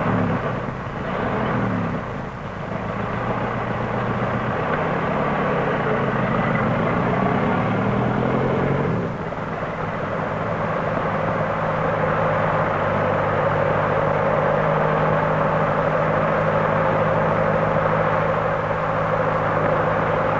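Early open motor car's engine running on an old film soundtrack. Its pitch rises and falls for the first nine seconds or so, then settles into a steady drone.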